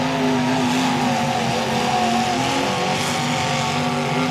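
Several demolition derby car engines running and revving at once, their different pitches overlapping and wavering steadily.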